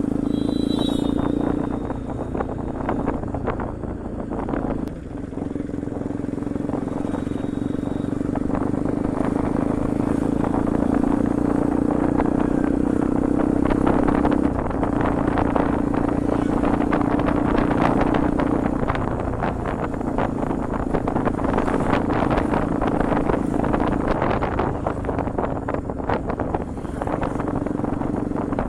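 A Bajaj Pulsar NS200's single-cylinder engine running through an aftermarket Akrapovic exhaust on the move, holding a steady note that dips briefly a few times. A haze of wind and road noise runs under it.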